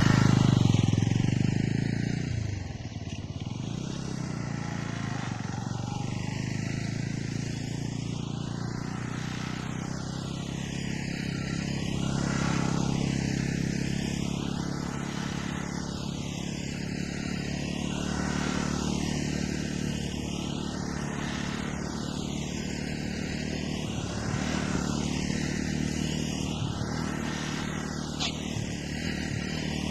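KTR 150 motorcycle engine running steadily as the bike rides repeated tight turns. Its sound sweeps in a cycle about every two seconds as it circles, and is loudest in the first two seconds.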